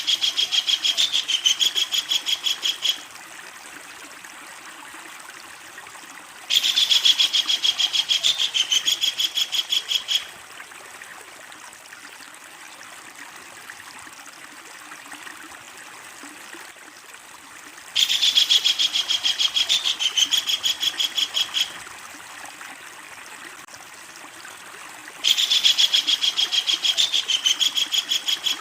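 Kingfisher giving four long, loud laughing rattles of rapid, evenly repeated high notes, each lasting about three and a half seconds, over a steady background hiss.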